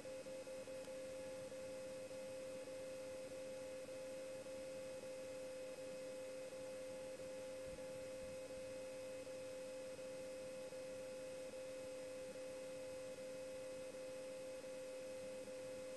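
Faint steady electrical hum on the aircraft's radio and intercom audio feed: one held tone with fainter higher tones above it.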